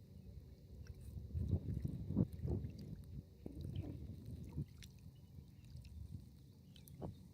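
Jet ski idling faintly, with irregular low rumbles and sloshing of waves and wind against the hull and microphone, strongest in the first half.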